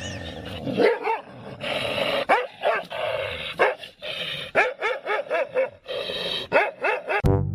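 A dog barking, many short rising-and-falling calls in quick succession. Brass music starts just before the end.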